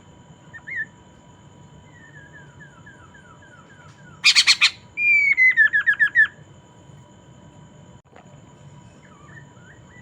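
Poksay mandarin singing: a short chirp, a run of soft falling notes, then a loud harsh burst about four seconds in, followed by a loud whistle that breaks into a quick series of falling notes.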